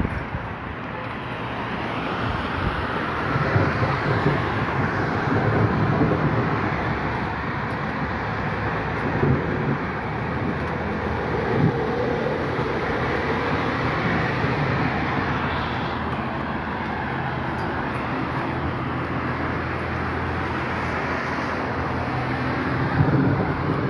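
Heavy rain falling on wet streets and pavement: a steady hiss, with a low rumble underneath.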